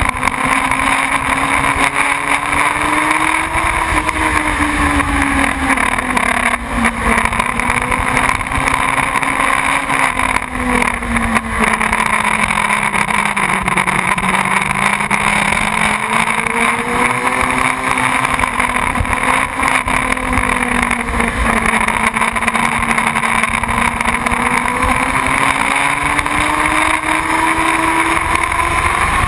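Motorcycle engine running steadily under way, its note slowly falling and rising again over several seconds.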